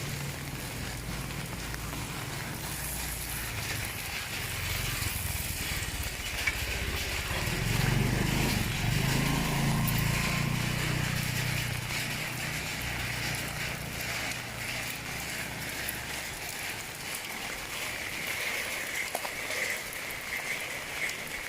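Steady rain falling, with a motor vehicle passing: its engine hum grows to its loudest about eight to ten seconds in and fades away by about sixteen seconds.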